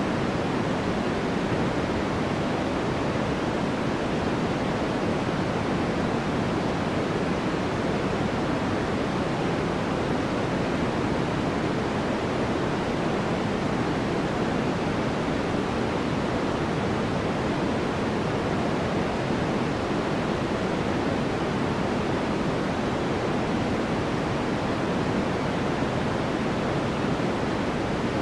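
Steady, unchanging noise from a white noise sleep track: an even hiss with most of its weight in the lower middle, thinning toward the treble.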